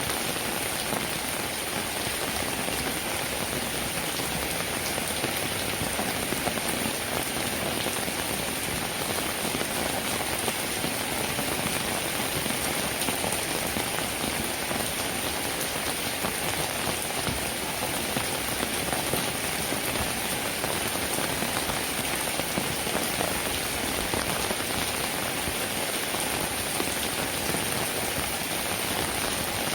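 Steady rainfall, a dense, even patter of drops that holds constant throughout.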